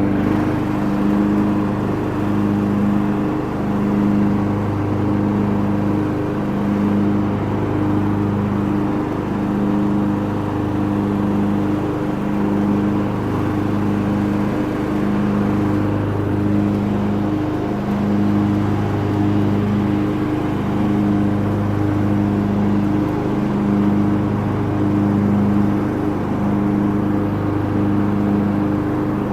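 Lawn tractor engine running steadily, its hum swelling and easing about once a second.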